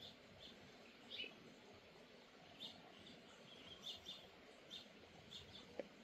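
Small songbirds giving faint, short, high chirps, a dozen or so scattered irregularly, about one or two a second.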